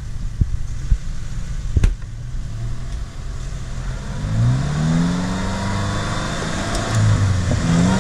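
Off-road 4x4's engine, under load in mud, revs up about four seconds in and again near the end. There are three sharp knocks in the first two seconds.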